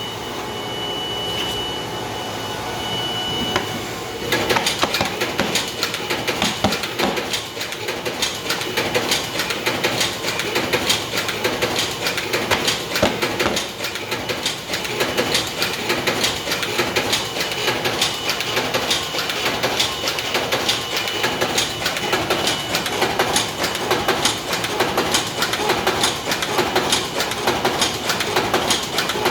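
DigiFold Pro-XL creasing and folding machine running: a steady hum with a high whine for the first few seconds, then from about four seconds in a fast, continuous clatter of clicks as sheets feed through it.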